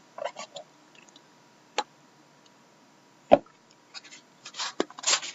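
Trading-card box and packs being handled on a table: a few short sharp taps, one heavier knock about three seconds in, then rustling and scraping near the end.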